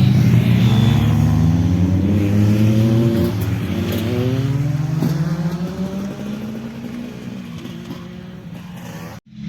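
A motorcycle engine running hard as it goes by and fades into the distance, its pitch sliding down. The sound cuts off abruptly near the end.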